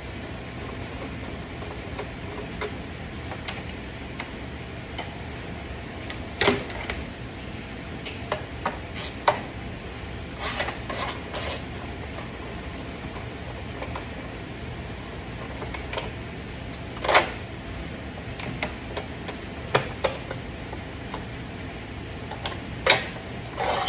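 Hand tools clicking and knocking against car parts at irregular intervals, with a few louder clanks, over a steady low hum.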